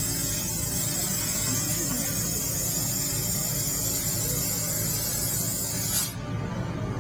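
Fiber laser cutter's assist gas hissing steadily from the cutting head during a cut in sheet metal, stopping abruptly about six seconds in. A low steady machine hum runs underneath.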